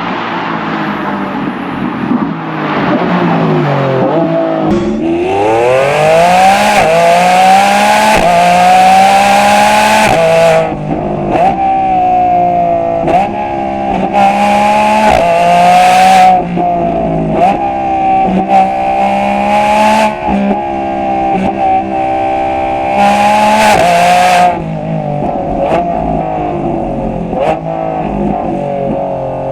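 Lamborghini Revuelto's hybrid V12 through a stainless cat-back exhaust, driven hard: the revs fall for a few seconds, then climb steeply and stay high, with a string of brief dips in pitch as the engine is worked on and off the throttle. It is loud throughout.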